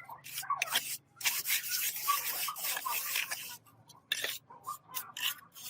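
Scraping and rubbing strokes: a few short ones, then a longer continuous scrape through the middle.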